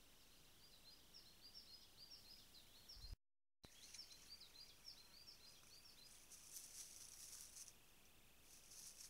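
Faint song of a small bird: a quick run of short, high chirping notes, broken by a brief dropout about three seconds in. From about six seconds, bursts of high hissing rustle.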